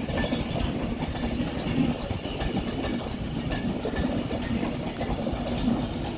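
Class 390 Pendolino electric train running slowly into a platform, its wheels clicking and knocking over the track, with a steady low hum.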